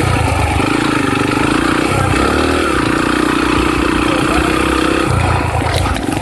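Dirt bike engine running under way, its pitch wavering up and down with the throttle, then easing off near the end.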